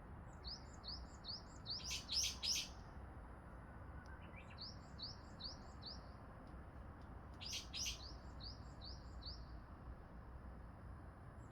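A songbird singing twice: each phrase is a quick run of five or six short rising high notes ending in three loud, harsher notes.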